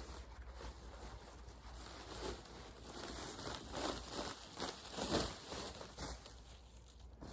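Rustling and scraping as building debris is handled and sorted, with a few louder scrapes about four and five seconds in.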